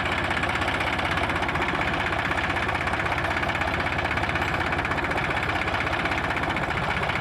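Sonalika 745 DI tractor's diesel engine idling steadily with an even, fast low pulse.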